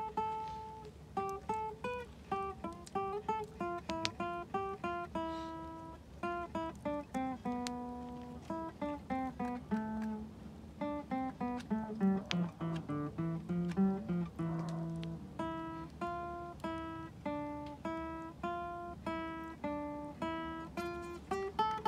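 Acoustic guitar playing a melody picked one note at a time, a few notes a second, with a slow stepping descent in the lower notes about halfway through.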